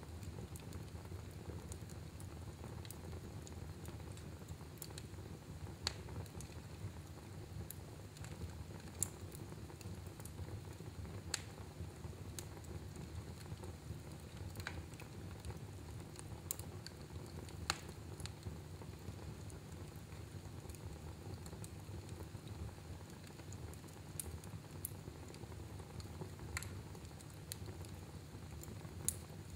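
Fire burning in a fireplace: a steady low rumble with sharp crackles and pops at irregular intervals, about a dozen of them.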